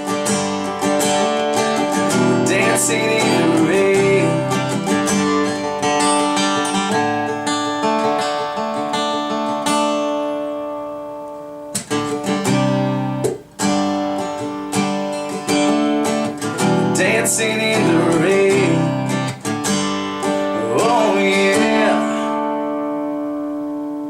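Acoustic guitar strumming the closing instrumental of a country song, with a brief break partway through and a final chord left ringing near the end.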